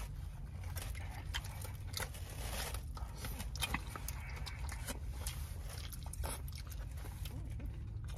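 Close-up chewing and mouth sounds of a person eating, with scattered small clicks and scrapes from a plastic fork, over a steady low hum.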